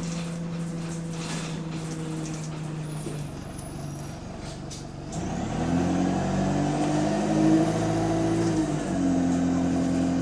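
Single-decker bus engine, which has an exhaust leak, idling steadily and then, about five seconds in, working harder with a hiss of air, its note climbing in steps before dropping back near the end, as heard from inside the bus.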